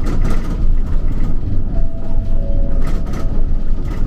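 Streetcar running, heard from inside the car: a steady low rumble of wheels on rail with rattling and clatter from the car body, and a faint steady whine partway through.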